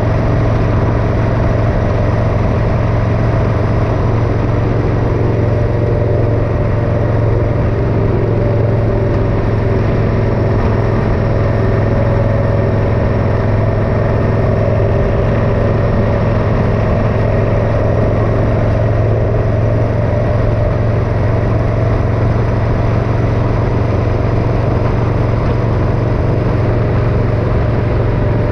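Motorcycle engine running steadily on the move, with a strong low hum and road noise; the engine pitch stays even.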